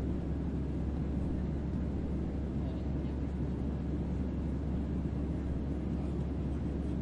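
Steady white noise with a heavy deep bass hum, unchanging throughout: a sleep-sound imitation of a spaceship's onboard hum.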